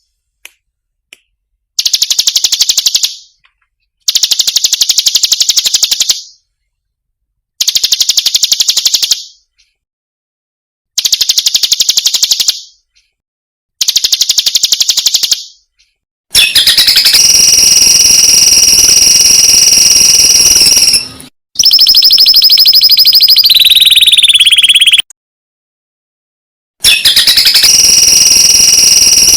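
Recorded songbird song played as cage-bird tutoring material: five rapid, high trills of about a second and a half each, separated by short silences, then from about halfway longer unbroken shrill trills with several tones held together, one sliding down in pitch before a pause.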